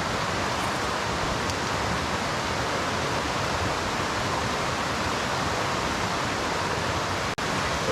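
Steady rush of a mountain stream's flowing water, an even noise with no pitch, broken by a split-second dropout near the end.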